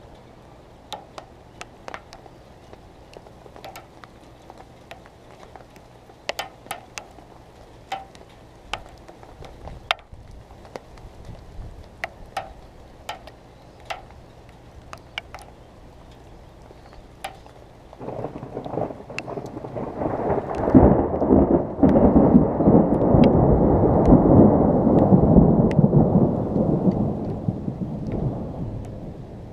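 Scattered raindrops ticking on the camera's waterproof case, then a long rolling rumble of thunder that builds about two-thirds of the way through, peaks, and slowly dies away.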